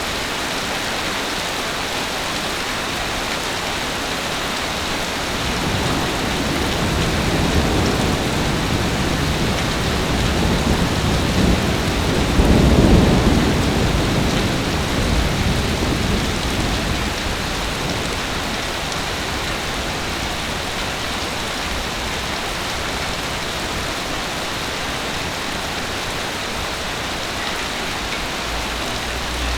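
Heavy rain falling steadily, with a roll of thunder building in the middle, at its loudest about halfway through, then dying away.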